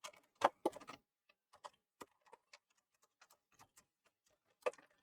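Irregular small clicks and taps of plastic and metal parts being handled while working on an opened PlayStation 4 Slim, the sharpest about half a second in and a few more near the end.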